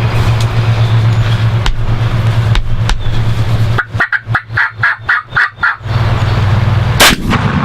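A wild turkey gobbler gobbling: a rapid, rattling run of notes lasting about two seconds near the middle, over a steady low vehicle hum. About seven seconds in there is a single sharp, loud bang, the loudest sound here.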